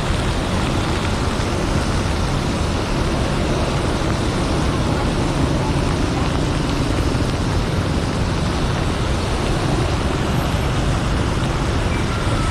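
Steady rush of wind and road noise from a moving motorbike, with its engine running underneath.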